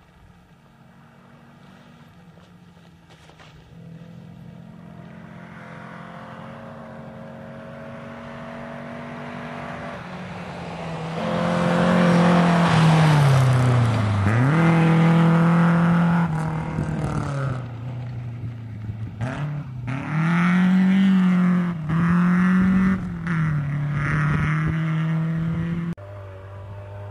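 Rally car engine approaching at speed on a gravel stage, growing steadily louder and then running hard past close by. Its note dips and climbs again several times as the driver lifts off and gets back on the throttle. Near the end it drops to a quieter, more distant engine.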